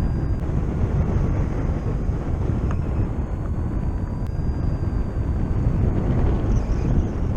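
Wind rushing over the microphone of a paraglider in flight: a steady low rumbling buffet. A faint, thin high tone is held for a few seconds in the middle.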